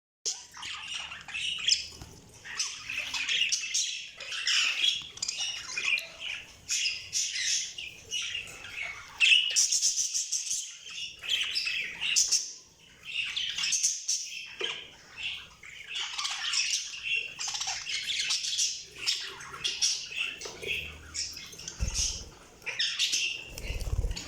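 Budgerigars chirping and squawking in a continuous rapid, high-pitched chatter, with a couple of brief low thumps near the end.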